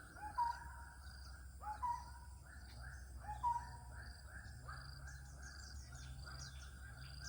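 Birds calling back and forth in woodland: three louder calls, each rising quickly into a short held note, in the first four seconds. Under them runs a steady chorus of evenly repeating pulsed calls, with faint high chirps.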